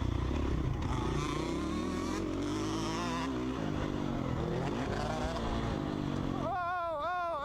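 Dirt bike engine running and revving, its pitch rising and falling. Near the end a wavering, warbling pitched tone comes in over it.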